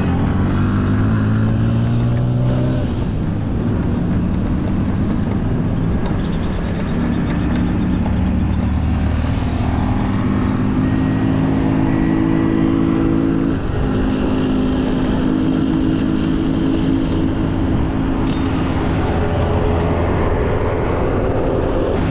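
Motor traffic running alongside a moving bicycle: a loud, steady rumble of road noise under the engines of nearby cars or larger vehicles, whose pitch holds and shifts every few seconds as they accelerate and ease off.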